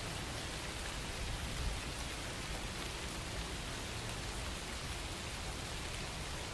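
Steady rain falling, an even hiss of many drops striking a surface, with a faint low rumble beneath.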